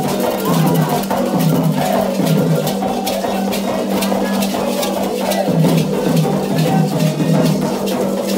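Candomblé ritual music: atabaque hand drums beaten in a fast, steady rhythm, with voices singing over the drumming.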